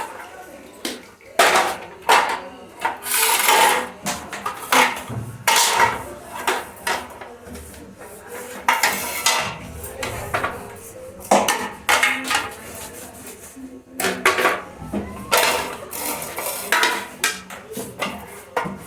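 Dishes and containers clattering and knocking as they are handled and set down, with a few longer scraping or rubbing stretches.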